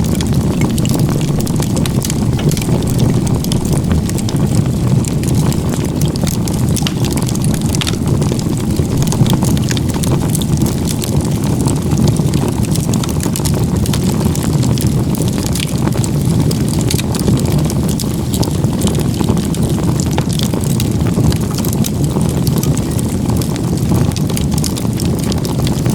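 Wood fire built as a log-cabin (igeta-gumi) stack burning hard: a steady low roar of flames with frequent small crackles and pops from the burning firewood.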